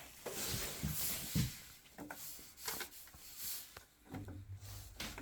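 Scattered light rubbing, clicks and knocks of something being handled, with a low steady hum coming in about four seconds in.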